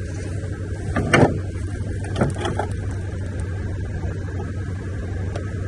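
Steady low hum of an idling vehicle engine, with a sharp knock about a second in and a few lighter clicks a second later.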